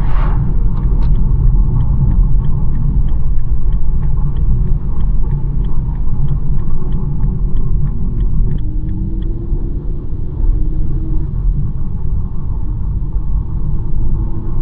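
BMW 1 Series driving along, a steady low rumble of road and engine noise. A short rush of noise comes right at the start, then a regular ticking, about three ticks a second, runs through the first nine seconds or so.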